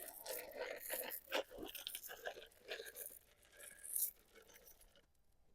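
Faint, irregular crunching and rustling as corn, sunflower seeds and peanuts are scattered along the ground; it stops about four seconds in.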